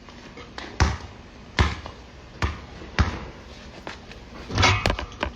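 Basketball bouncing on a hard court: four separate bounces in the first three seconds, then a louder, longer clatter near the end.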